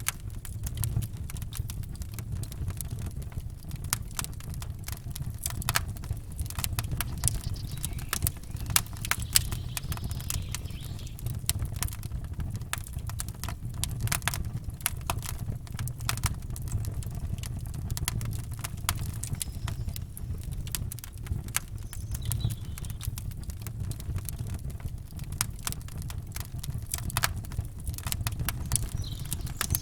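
Campfire crackling: irregular sharp pops and snaps from burning wood over a steady low rumble.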